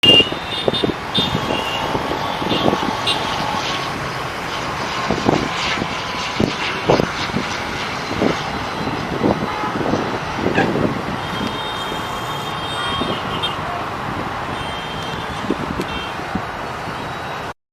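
Busy road traffic running steadily, with vehicle horns tooting briefly now and then and short knocks and thumps from passing vehicles.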